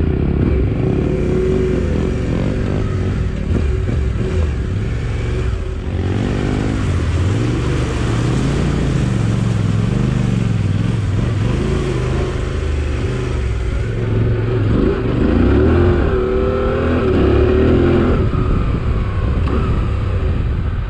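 Motorcycle engine revving up and down as the bike is ridden through a river crossing. The engine's pitch rises and falls repeatedly with the throttle.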